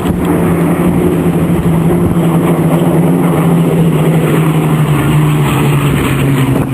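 Aircraft engine droning steadily, its pitch sinking slowly as the aircraft passes.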